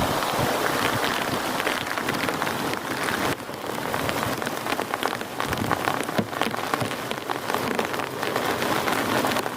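Heavy rain falling, with many separate close drops hitting a surface as sharp ticks over a dense, steady wash of rain.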